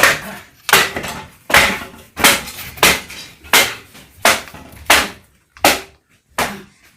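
A series of about ten hard blows, evenly spaced at roughly one and a half a second.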